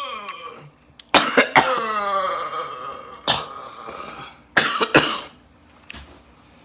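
A man coughing and gagging after a sip of drink: several harsh coughs, with strained voiced sounds falling in pitch between them, which die away a little past five seconds in.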